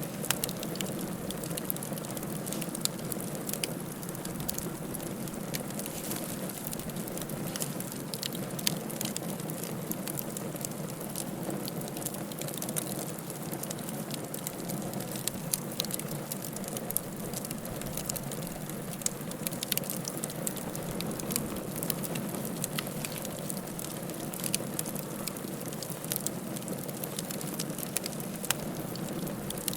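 Wood fire crackling in a fireplace: a steady hiss of burning with frequent sharp, irregular pops and snaps.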